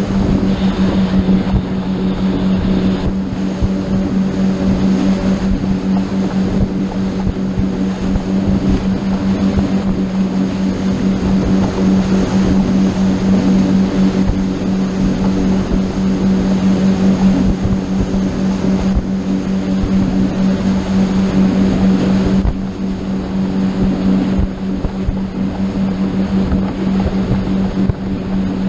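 Boat engine running steadily at speed, a constant low drone, with wind and rushing water over it. It drops a little in level about two-thirds of the way through.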